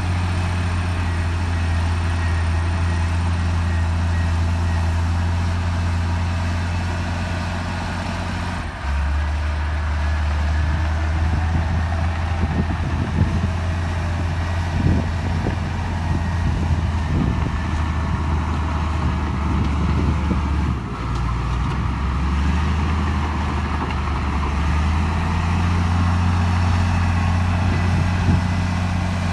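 Heavy diesel earthmoving machinery running steadily under load. The engine note drops lower about a third of the way in and comes back up near the end, with scattered clanks and rattles in between.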